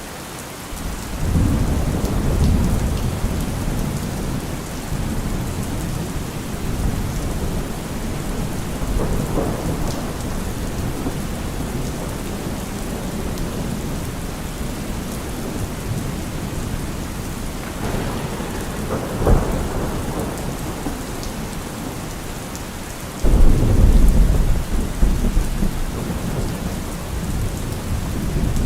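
Heavy rain falling steadily through a thunderstorm. Thunder rumbles swell about a second in, again about a third of the way through and past the middle, and the loudest, a sudden clap with a long rumble, breaks out near the end.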